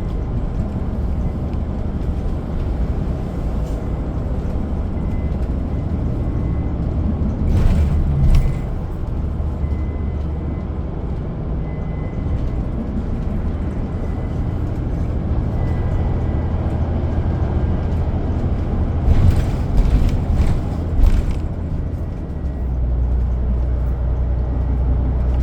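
Transit bus driving, heard from inside the passenger cabin: a steady low engine and road rumble, with a few short knocks about 8 seconds in and again around 19 to 21 seconds.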